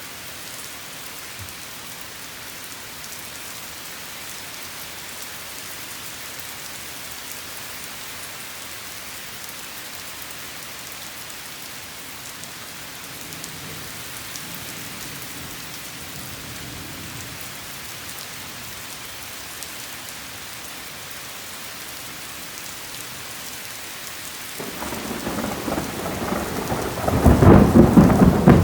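Steady rain falling, an even hiss. About 25 seconds in, a loud rumble of thunder builds and rolls on to the end.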